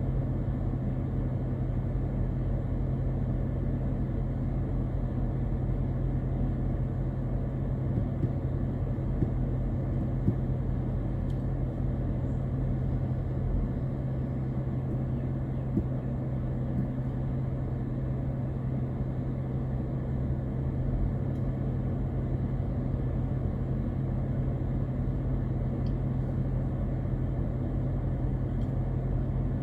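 Steady low road and engine drone of a car on the move, heard from inside the cabin, with a constant hum and a few faint knocks.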